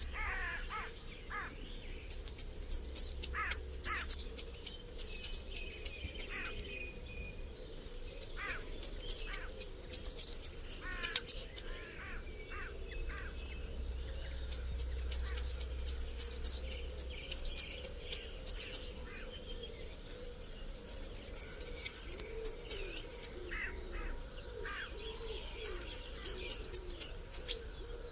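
A songbird singing loud phrases of high, sharp down-slurred notes, about three a second. Each phrase lasts a few seconds, with short pauses between them. Other birds call faintly in the background.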